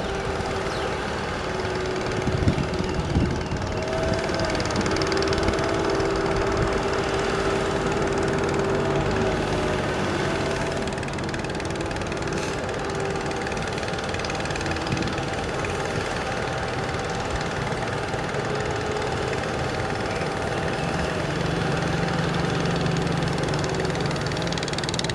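Heavy diesel engine of a dump truck or excavator running steadily, with a few knocks about two to three seconds in.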